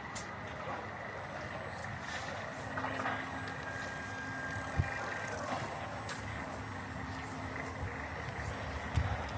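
City street traffic ambience: a steady wash of vehicle noise, with an engine's low steady hum joining about two and a half seconds in and two soft low thumps.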